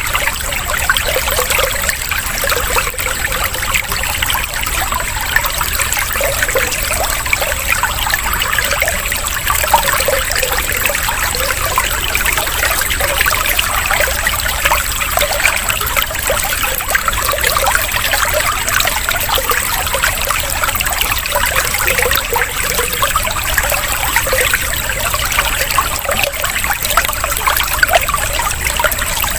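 Water trickling and splashing steadily, like a small stream or fountain, used as a water-sound therapy track for songbirds.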